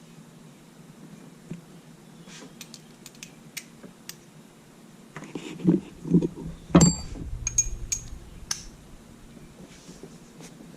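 Scattered light metallic clicks and clinks of objects being handled, with a few heavier knocks about six to seven seconds in.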